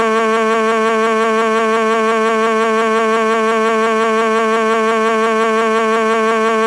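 A loud, long electronic tone held at one steady pitch with a slight wobble and many overtones, with no words.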